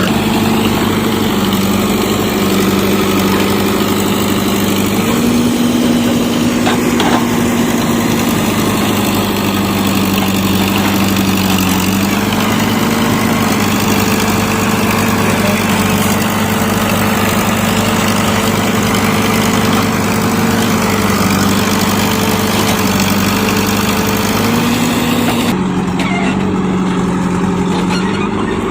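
Heavy diesel engine running steadily. Its pitch steps up and down a few times as the engine speed changes.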